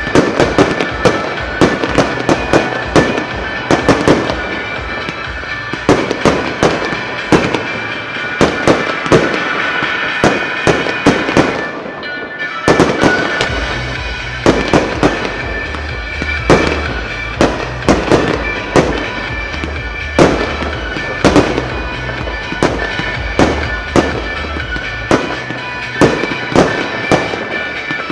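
Fireworks shells bursting in quick succession, many sharp bangs a second, over the show's music soundtrack. The bangs pause briefly about halfway, then resume as a deep bass line comes into the music.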